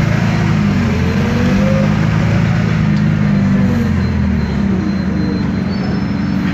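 Isobus City 1200 city bus under way: its MAN D0836 diesel engine and ZF Ecomat automatic driveline running, with a whine that rises and then falls again between about one and four seconds in.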